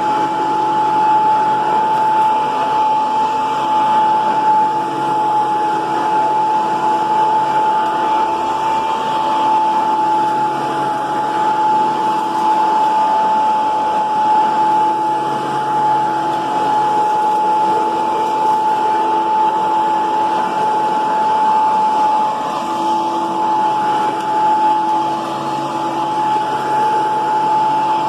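Hoover PowerMAX II upright vacuum cleaner running steadily, its motor giving a high, even whine over a lower hum that comes and goes.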